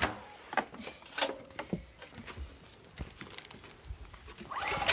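A few separate clicks and knocks from the pull-start attempt on a new Champion 4500 generator. The engine does not catch, and there is no running engine sound.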